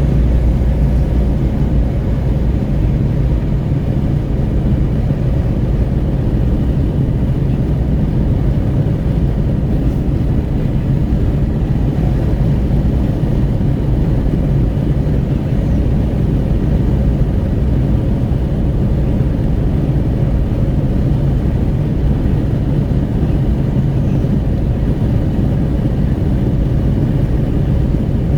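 Steady cabin noise of a Renault Kwid 1.0 at highway speed: wind buffeting at an open window over tyre and engine drone, a constant low rumble with no change.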